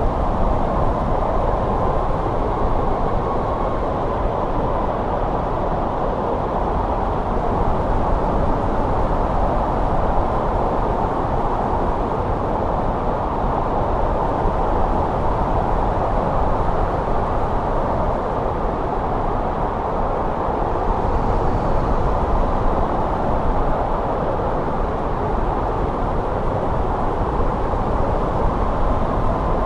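Steady winter snowstorm wind blowing, a continuous low rush with a faint whistle coming and going.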